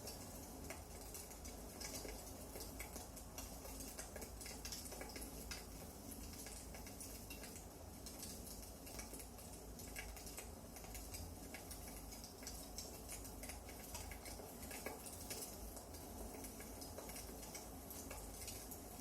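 Wood fire crackling in a fireplace: small irregular pops and snaps over a low steady rumble.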